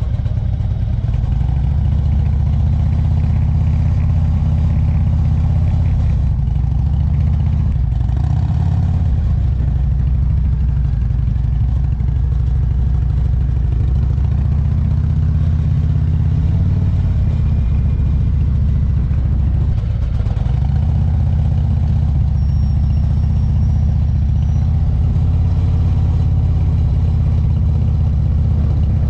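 Motorcycle engine running at low revs with small rises and falls in pitch, typical of the slow-speed maneuver drills.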